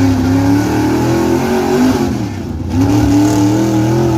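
Gas-engined street pickup truck's engine held at high revs under load as it drags a weight sled, its pitch wavering. The revs sag about two seconds in, then climb back up.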